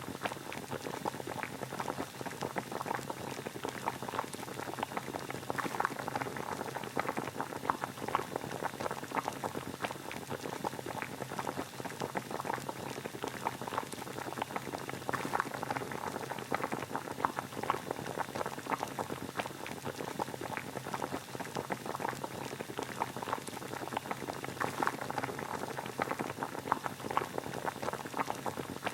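Water boiling steadily, a dense continuous bubbling and crackling with no let-up.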